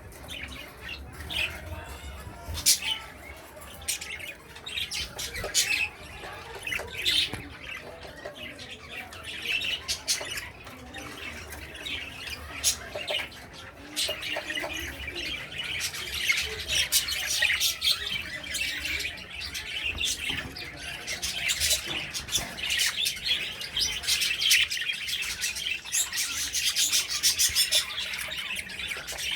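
A mixed aviary of pet birds (budgies, cockatiels, finches) chirping and squawking, many short calls overlapping; the chatter grows busier and more continuous about halfway through.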